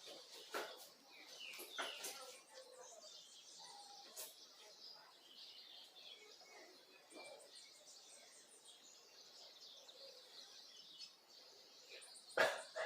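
Small birds chirping and tweeting faintly, in short scattered calls, with a louder burst of sharp sounds near the end.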